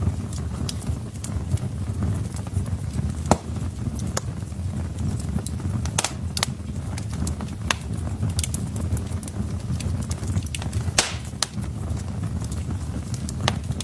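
Wood fire in a fireplace burning with a steady low rumble and irregular crackles and pops from the logs; a sharp pop stands out about three seconds in and a cluster of louder crackles comes about eleven seconds in.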